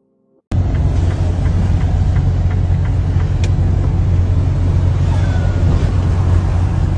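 Steady low rumble of road and engine noise in a moving car, cutting in suddenly about half a second in, with a few faint ticks over it.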